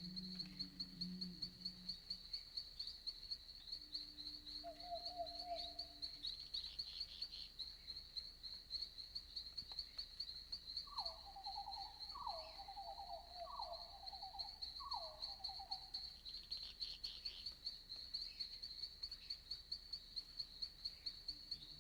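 Crickets chirping steadily in quick, regular pulses in a night forest. About halfway through, another animal gives four short calls in a row, each falling in pitch.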